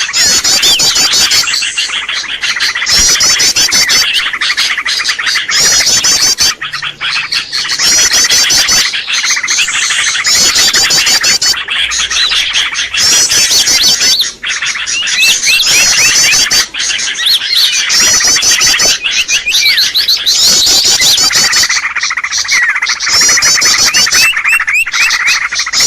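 Bird-luring call recording: small birds' rapid, high chirps and trills repeated in dense phrases without a break, the kind of call played back to draw wild birds in.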